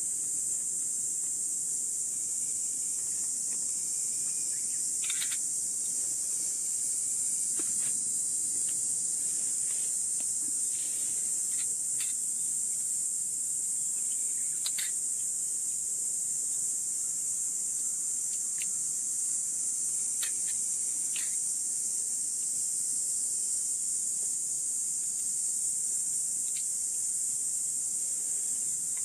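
Steady high-pitched chorus of crickets or similar insects, with a few short sharp ticks scattered through it.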